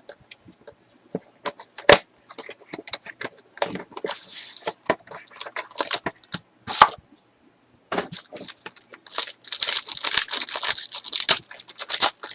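Plastic shrink-wrap being torn and crinkled off a trading-card box, with sharp clicks and crackles, then a denser stretch of crinkling from about eight seconds in.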